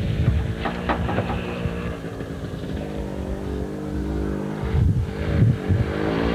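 Engine running at a fairly steady pitch, with a few sharp knocks or clicks about a second in.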